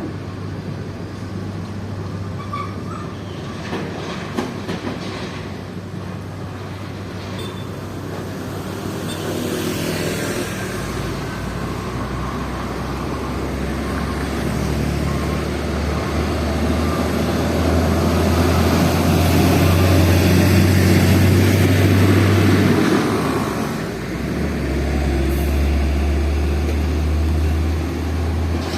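Heavy diesel trucks driving past, a low engine drone that builds to its loudest about two-thirds of the way through, dips briefly, then rises again as another truck passes.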